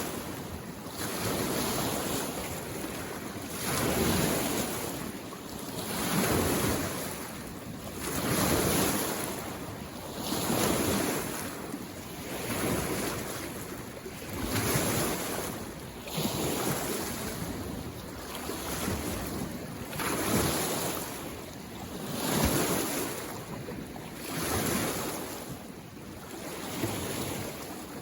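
Small waves on a mountain lake washing in against the shore, one swell about every two seconds.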